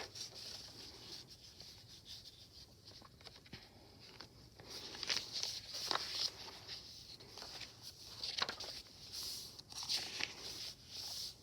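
Paper pages of a handmade journal being handled and turned: intermittent paper rustling and light crinkles, busier and louder in the second half.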